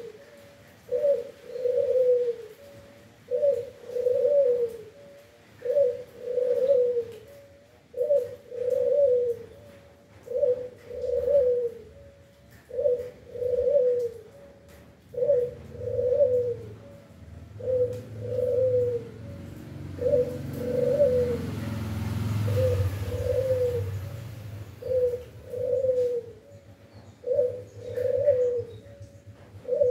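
A dove cooing over and over, a two-part coo repeated about every two seconds. A low rumble swells and fades about halfway through.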